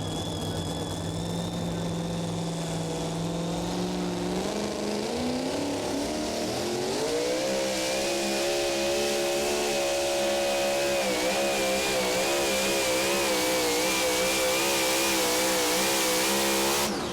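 Super modified two-wheel-drive pulling truck's engine running steadily, then revving up over a few seconds from about four seconds in and held at high revs down the pull, its pitch wavering, before it cuts off near the end.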